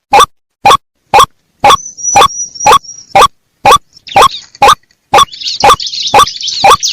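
White-breasted waterhen lure recording: short, rising 'kook' calls repeated evenly about two a second. Behind them are a thin high whine about two seconds in and high chirring from about five seconds in.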